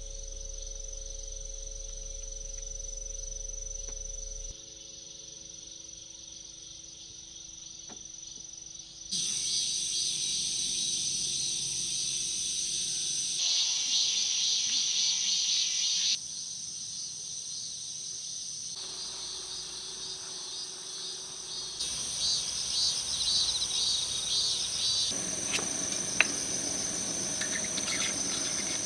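Crickets and other insects chirping steadily in high-pitched tones. The chorus shifts abruptly in level and pitch several times, with a single click near the end.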